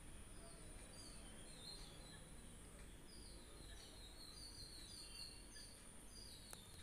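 Near silence, with faint high-pitched bird chirps in quick runs, most of them in the middle and later part, over a faint steady high hiss.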